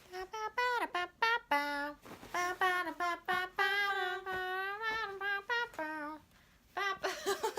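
A woman's voice singing a short melody with no accompaniment, mixing quick gliding notes with one long held note in the middle.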